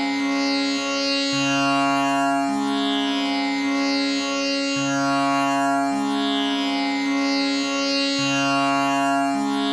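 Tanpura drone tuned to C sharp, its strings plucked one after another in an unbroken cycle. The pattern repeats about every three and a half seconds over a steady ring of shimmering overtones.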